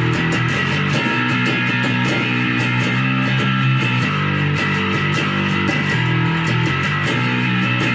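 Epiphone Grabber electric bass played with a pick through distortion, its humbucker switched to coil split for a single-coil sound. It plays a steady run of rapidly picked, sustained notes with a gritty, distorted edge.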